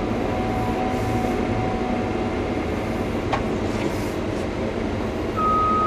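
Caterpillar 320 hydraulic excavator's diesel engine running steadily. Near the end its warning alarm starts a steady high beep.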